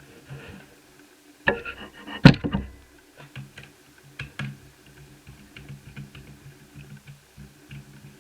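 Small clicks and knocks from an Asus F5R laptop's plastic case and small screws as its cooling-system cover is being removed. A clatter about a second and a half in is followed just after by a sharp knock, the loudest sound, then a run of light scattered clicks.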